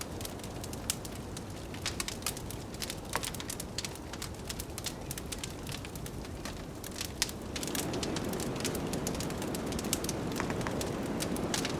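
Wood fire crackling with frequent sharp pops, over a steady rush of blizzard wind that swells louder about eight seconds in.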